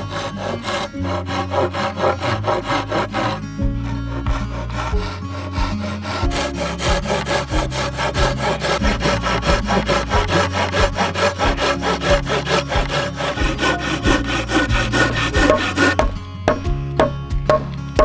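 Folding hand saw (Silky Gomboy) cutting through a wooden pole in quick, even back-and-forth strokes, stopping near the end, with background music underneath.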